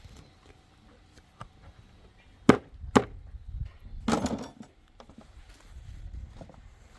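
Two sharp chopping knocks on wood about half a second apart, then a longer, rougher crunch about a second later.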